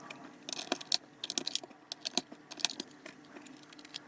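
A series of small sharp clicks and metallic clinks as AAA batteries are fitted into an RC helicopter remote's battery compartment.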